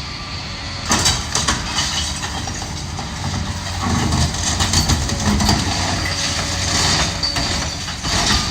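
Demolition machine's diesel engine running while brick and concrete debris crash and clatter down from the building, starting about a second in, with a heavier rumble of falling material around four to five seconds and more clattering near the end.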